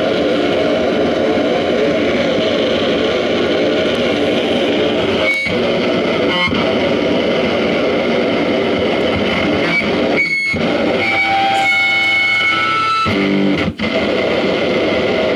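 Distorted electric guitar run through effects, a dense wall of noise with squealing tones on top and a few momentary breaks, cutting off suddenly at the end.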